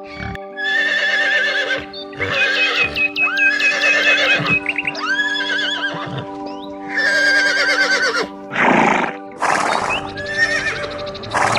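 Horse whinnying about five times, each call quavering in pitch, over steady background music. Near the end come two short breathy blasts.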